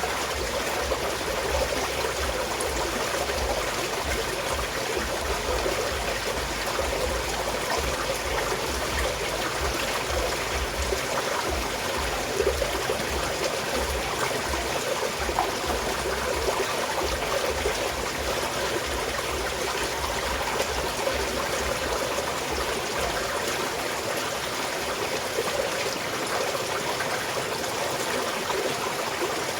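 Small mountain stream flowing and trickling steadily over rocks.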